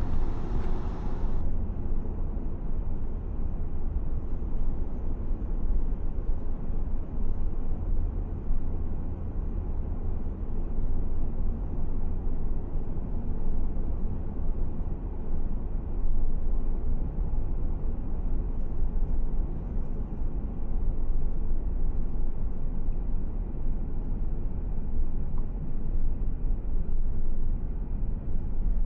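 Car driving at steady speed: a continuous low road and engine rumble with a hiss of tyre and wind noise above it.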